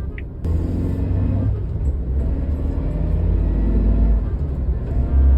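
Low engine and road rumble heard from inside a moving Suzuki Jimny's cabin. The rumble steps up abruptly about half a second in, then runs on steadily.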